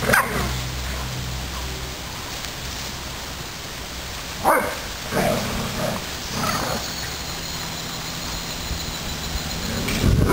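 Dobermans giving short barks and yips: one right at the start, then a quick run of four about halfway through, over a steady background hiss.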